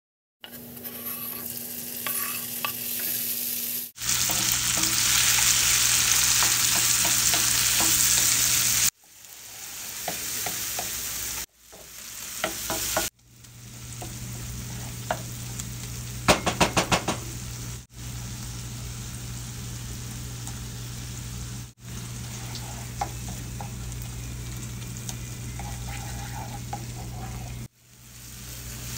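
Food sizzling and frying in a pan while being stirred, breaking off abruptly several times. There is a steady low hum under most of it, and a quick run of sharp taps about halfway through.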